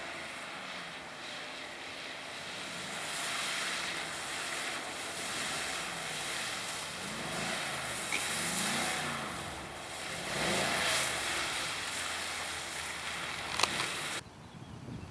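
A Mercedes-AMG V8 car driven hard around a track while drifting, its engine revving up and down again and again, with a hiss of tyres spinning and sliding. The sound drops away suddenly about a second before the end.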